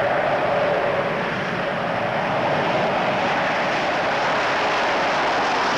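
Jet engines of an Avro Vulcan delta-wing four-jet bomber running steadily: a continuous rushing roar with a slowly wavering whine.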